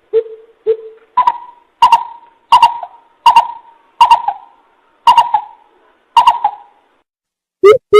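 Coucal (bubut) calling: a series of deep hoots spaced under a second apart, the first two lower, the rest higher-pitched. After a short pause near the end, a quicker run of lower hoots begins.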